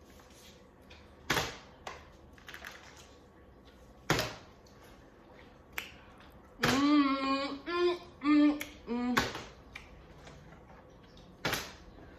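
Plastic water bottle being flipped and landing on a hard surface: four sharp knocks a few seconds apart. Midway a person makes drawn-out pitched 'ooh' sounds.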